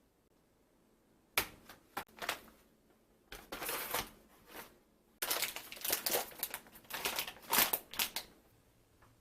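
Plastic packaging crinkling and rustling as it is handled, in short bursts with a few light clicks, busiest and loudest in the second half.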